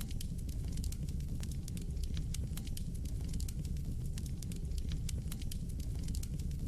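Fire crackling in a fireplace: many quick, irregular sharp pops over a steady low rumble.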